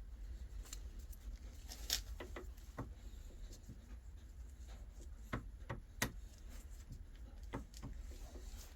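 Scattered light clicks and taps of small metal gearbox parts being handled, a sharper click about two seconds in and another about six seconds in, over a steady low hum.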